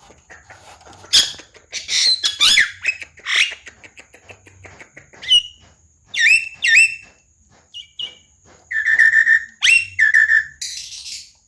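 Javan myna calling in a varied, chattering run: quick clicks, sweeping whistles and falling whistled notes, with a harsh raspy call near the end.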